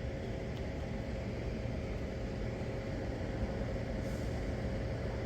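South Western Railway Class 450 electric multiple unit standing at the station platform, giving a steady low hum and rumble with a faint held tone.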